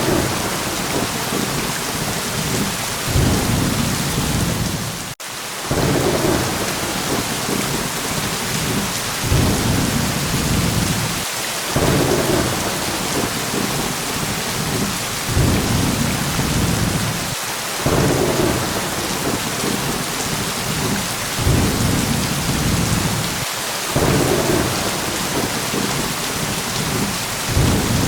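Steady heavy rain with low rolls of thunder swelling and fading every few seconds. The sound drops out for a moment about five seconds in.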